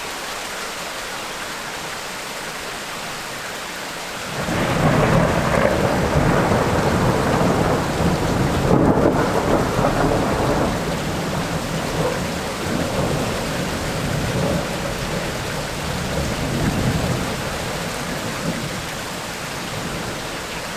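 Steady heavy rain in a tropical rainstorm, with a long rolling thunder rumble that breaks in suddenly about four seconds in and slowly fades over the next fifteen seconds.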